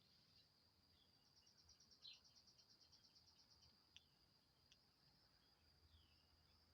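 Faint outdoor ambience: a steady high-pitched insect drone, with a rapid trill lasting about two seconds and a few short bird chirps.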